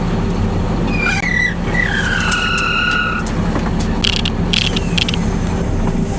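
A vehicle engine running steadily. About a second in, a high squeal falls slightly in pitch and lasts about two seconds, and a few sharp clicks come near the end.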